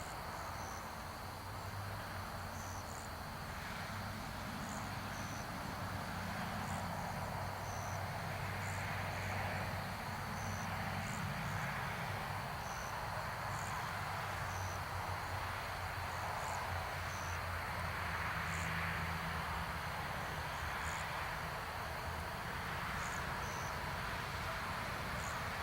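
Crickets and other insects chirping outdoors: short high chirps every second or two over a steady high trill. A low steady rumble runs underneath.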